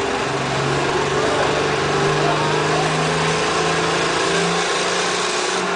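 Competition pulling tractor's engine revving hard under load, its pitch climbing in steps over several seconds.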